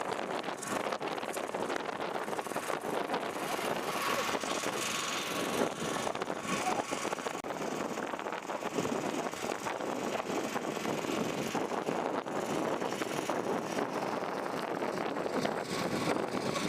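Steady outdoor noise of cars moving through a car-show parking lot, with no single event standing out.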